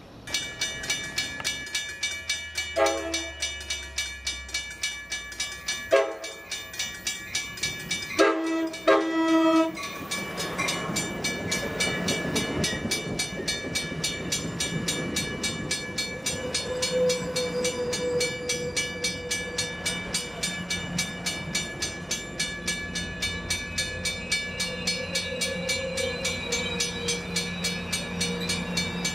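Grade-crossing warning bells ringing steadily at about two strokes a second while an Amtrak Pacific Surfliner sounds four short horn blasts between about 3 and 10 seconds in. The train then rolls through the crossing with a steady rumble of wheels on rail as it departs the station.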